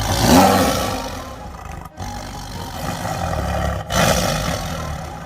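Large wild animals roaring and growling in a fight, in three short bursts broken by abrupt cuts about two and four seconds in; the first roar, right at the start, is the loudest.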